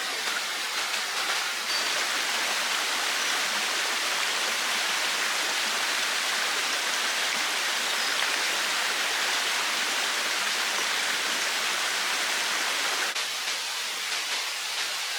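Steady rush of running water from a stream, a little louder from about two seconds in until near the end.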